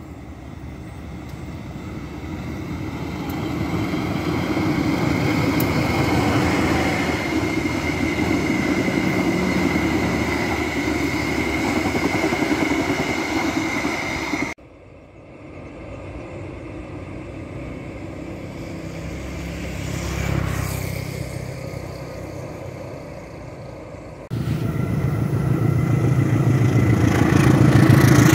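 Trains running on the track: a passenger train's wheels rumbling on the rails, growing louder as it comes near, then, after two abrupt cuts, a diesel locomotive hauling freight wagons passing close with a deep engine rumble, the loudest part near the end.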